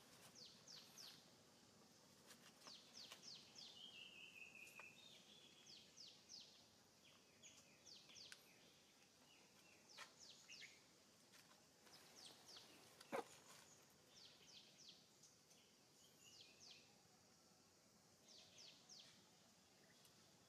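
Faint birdsong: a bird repeating clusters of three or four short, high, downward-sweeping chirps every second or two, with a short run of lower stepped notes a few seconds in. A single sharp click about two-thirds of the way through is the loudest sound.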